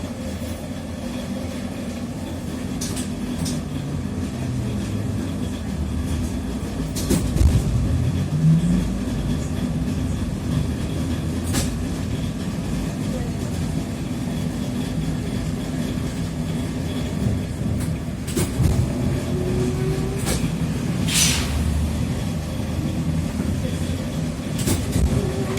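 Cabin ride noise of a TrolZa-5275.05 'Optima' trolleybus under way: a steady low rumble from the running gear, broken by sharp clicks and knocks. Three times a short whine rises in pitch as the trolleybus picks up speed.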